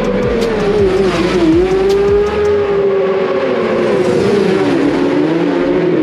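Racing motorcycle engines running on the circuit: a steady, slightly wavering engine note, with one engine sweeping in pitch about a second in.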